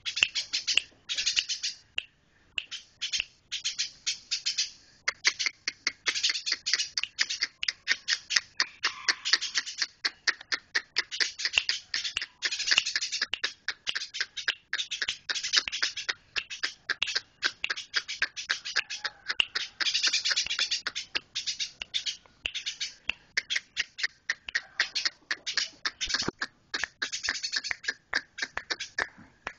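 Eurasian tree sparrow chirping rapidly: long runs of short, sharp, high chirps in quick succession, broken by a few brief pauses.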